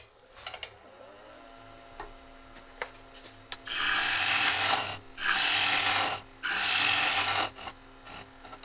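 Laguna Revo 1836 lathe spinning up to a steady hum, then three scooping cuts of a bowl gouge into the inside of a spinning cherry bowl, each a loud scraping cut about a second long, taking the bottom down thinner.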